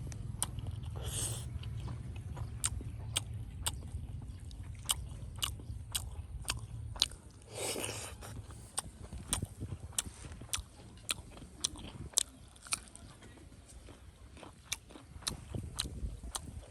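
Close-up eating sounds: chewing, with sharp wet clicks about twice a second and a short noisy burst about eight seconds in.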